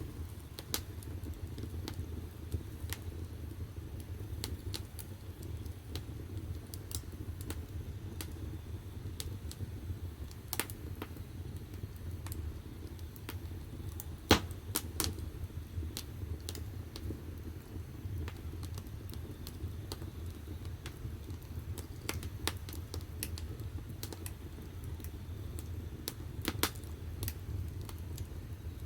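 Firewood burning in the firebox of a wood-fired bath: scattered sharp crackles and pops over a steady low rumble, with one louder pop about halfway through.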